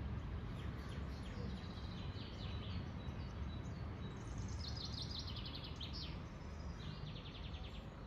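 Small birds chirping, with quick high trills about halfway through and again near the end, over a steady low hum of outdoor background noise.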